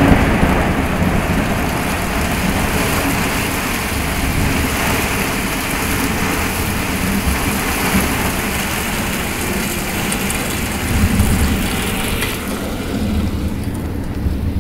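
Heavy rain pouring down in a thunderstorm: a loud, steady hiss with a low rumble underneath, loudest at the start and easing slightly.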